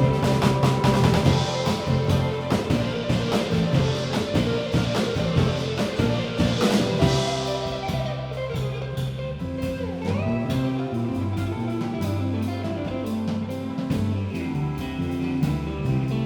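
Live rock band playing an instrumental passage: electric guitar over a moving bass line, with a drum kit keeping time.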